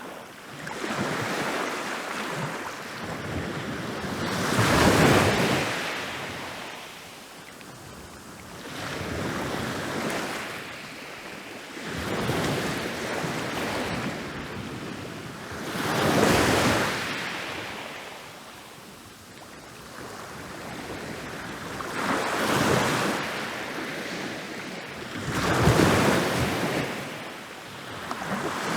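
Ocean waves breaking and rolling onto a beach, each wave swelling to a crash and washing back in a hiss, with the biggest breaks about 5 and 16 seconds in and two more near the end.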